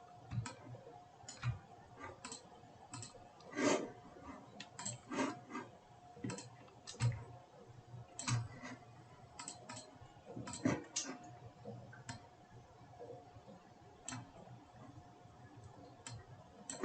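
Computer mouse clicking, irregular single and double clicks, over a faint steady hum.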